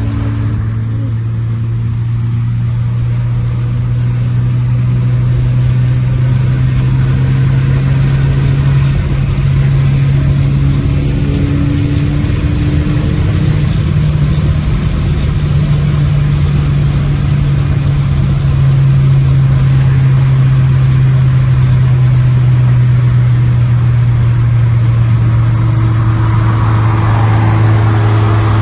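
Saab 2.8 V6 engine running through a muffler-deleted exhaust, a loud, steady drone held at a near-constant engine speed, the pitch creeping slightly upward and getting a little louder about two-thirds of the way through.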